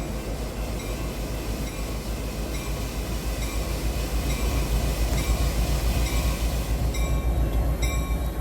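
Metra commuter train moving on the rails, a steady rumble with rapid pulsing that grows a little louder partway through, probably as it pulls away after its doors close.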